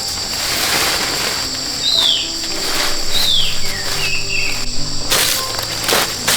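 Insects trilling steadily on a high pitch, with a bird giving a short descending call three or four times. Sharp knocks come near the end.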